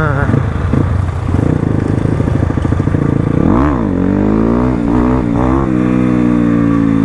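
Crossfire RM250 dirt bike engine running while riding. About three and a half seconds in it revs up quickly and drops back, then its note falls slowly.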